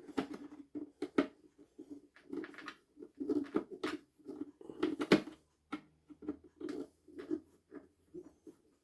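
Small irregular clicks, knocks and scrapes of a screwdriver working crosshead screws out of a vacuum cleaner's plastic housing while the parts are handled, with one sharper knock about five seconds in.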